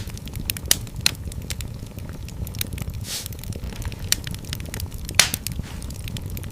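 Wood fire in a fireplace crackling: a steady low rumble of the flames under scattered sharp pops, the loudest about five seconds in, with a brief hiss around three seconds in.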